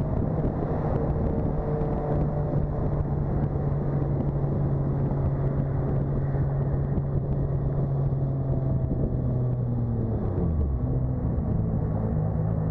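Turbocharged Toyota 2JZ-GTE inline-six in a Lexus SC300, heard from inside the cabin, droning steadily at cruise. About ten seconds in the engine note drops sharply, then comes back a little higher with a gear change on the manual shifter.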